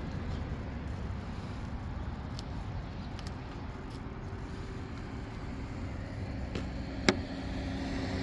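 Steady low vehicle-like rumble, with faint steady tones coming in during the second half and a single sharp click about seven seconds in.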